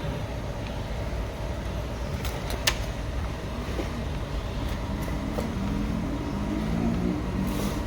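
Huebsch washing machine running with a steady low motor hum and rumble, its low tones wavering, and a single sharp click a little under three seconds in.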